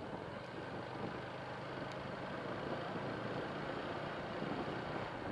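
A vehicle engine running steadily, with a low even hum under rumbling road and wind noise.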